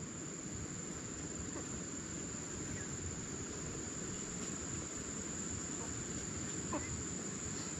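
Insects, crickets or cicadas, trilling as one continuous high-pitched whine, over a low rumbling background noise.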